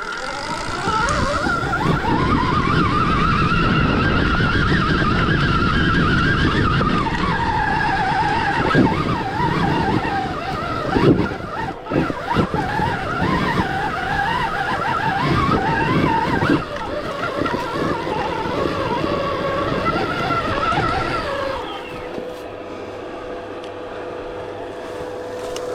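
Stark Varg electric dirt bike motor whining under hard load on a hill climb, its pitch rising and falling with the throttle over the noise of the rear tyre churning loose dirt and rock. The whine falls away about 21 seconds in.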